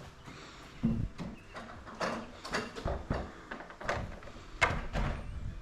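A string of irregular knocks and clacks, about ten over a few seconds, from garage door sections and hinge hardware being handled and fitted.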